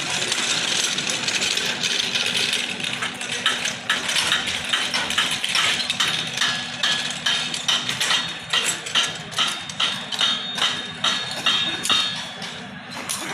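Passenger train at a station: a steady hiss and low hum, with a run of clicks and knocks that settles into a regular beat of about two a second in the second half.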